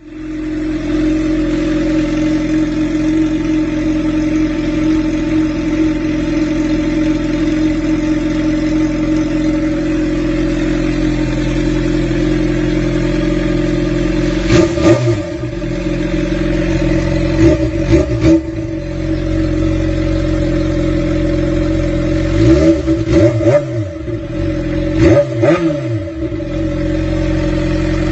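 Suzuki GSX-R 600's inline-four engine idling steadily through an Akrapovič Megaphone titanium exhaust. About halfway through come quick throttle blips, the revs rising and falling sharply, a few times in a row near the end.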